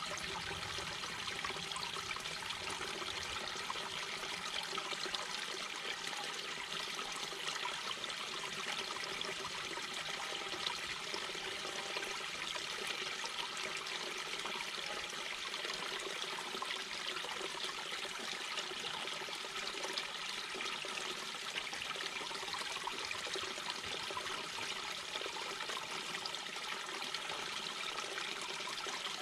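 Mountain brook babbling over rocks: a steady, even rush and gurgle of flowing water with no breaks.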